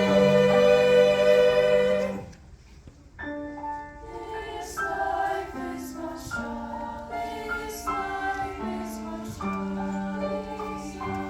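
A choir holds a sung chord that cuts off about two seconds in. After a short pause, a piano plays on alone in slow, sustained notes.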